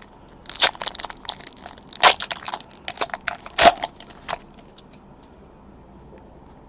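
Trading cards and their foil pack wrapper being handled: a run of crinkles and sharp snaps lasting about four seconds.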